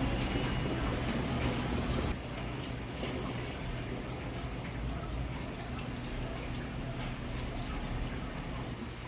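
Water running or trickling, louder for the first two seconds and then steady, with a faint low hum underneath.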